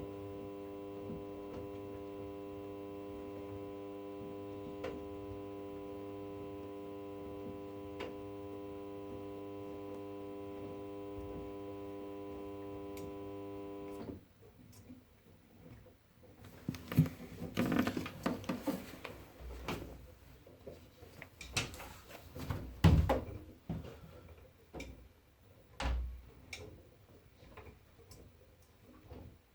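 Washing machine running. A steady electric hum, typical of a pump or motor, stops abruptly about halfway. It is followed by a pause and then irregular knocks and clunks, as of the drum turning with laundry inside.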